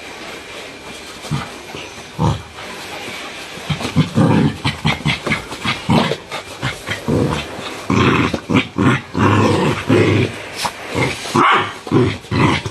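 Chinese rural dogs growling and barking. A few sounds come early, then from about four seconds in there is a rapid run of short, loud bursts.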